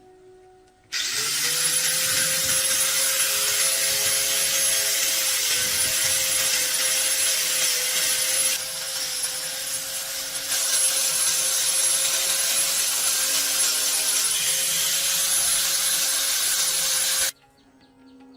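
A handheld power tool running steadily, with a constant whine over a noisy grinding hiss. It starts abruptly about a second in, eases briefly about halfway through, and cuts off shortly before the end.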